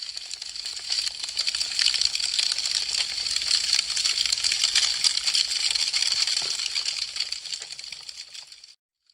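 Wood fire crackling: a dense run of small sharp pops and snaps over a bright hiss, swelling in over the first second or two and fading away shortly before the end.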